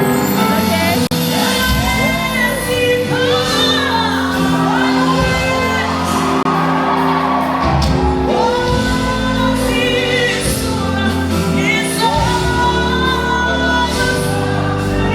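Live gospel worship music: singers holding long sung lines over a band's sustained keyboard chords and bass.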